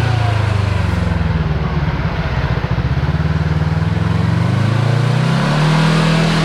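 Kawasaki Teryx KRX4 1000 side-by-side's engine running along the trail, with tyre and road noise. Its note dips and then climbs back up about five seconds in as the machine eases off and accelerates again.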